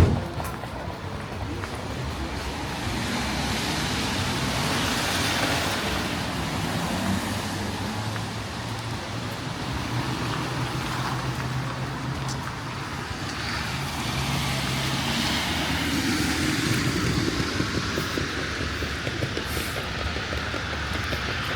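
City street traffic: vehicles passing on a wet road, the noise swelling and fading twice, with a low steady engine hum in the middle.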